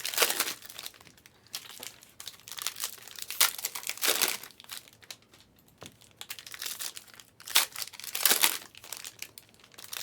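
Plastic or foil card-pack wrapping crinkling and rustling in irregular bursts.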